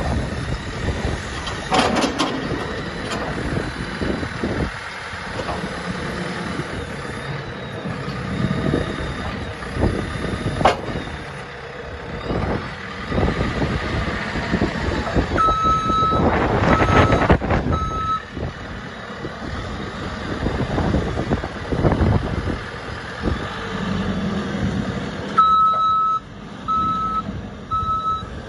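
JCB 3CX backhoe loader's diesel engine running, with clanks and knocks as the machine works. Its reversing alarm beeps in two spells, a few beeps just past halfway and a steady run of beeps near the end.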